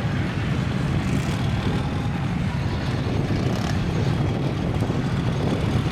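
Mud truck engine running, a loud steady drone.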